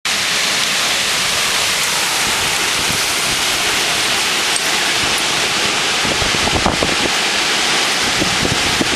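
Wind storm: a steady, loud rush of wind. From about two-thirds of the way in, gusts buffet the microphone.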